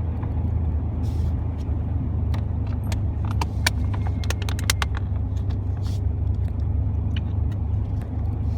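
Truck driving, heard from inside the cab: a steady low rumble of engine and road. A run of light clicks and rattles sounds between about two and five seconds in.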